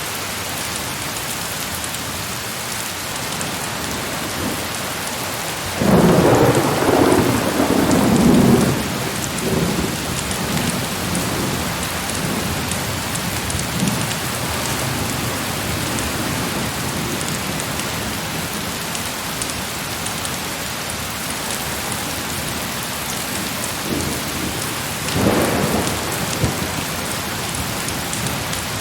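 Heavy rain falling steadily. A peal of thunder rumbles in about six seconds in and dies away over a few seconds, and a shorter rumble comes near the end.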